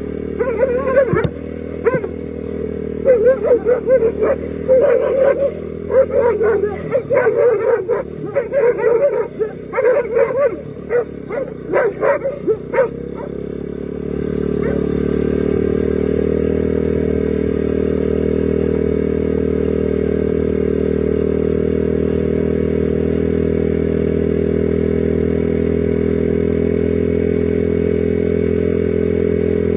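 A dog barking repeatedly over a steady engine hum. About halfway through the barking stops and the engine runs on, steady and a little louder.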